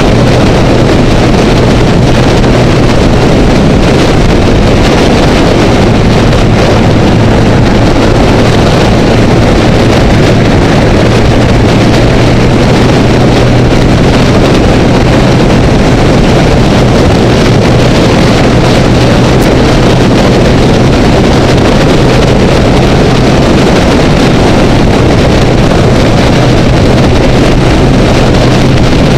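Honda Rebel motorcycle engine holding a steady drone at freeway cruising speed, under loud wind rush on the camera.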